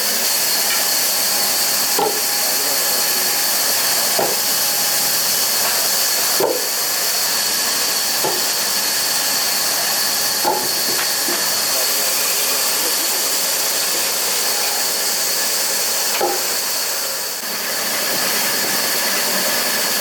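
A steady loud hiss, with about six light knocks at irregular intervals.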